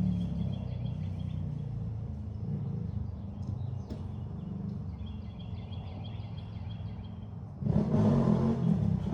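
Motorcycle engine running with a steady low rumble, then suddenly revving louder near the end.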